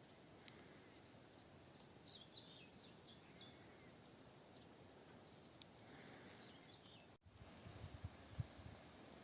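Near silence: faint outdoor ambience with a few quick, faint bird chirps in the first half. A few soft low thumps come near the end, after an abrupt cut.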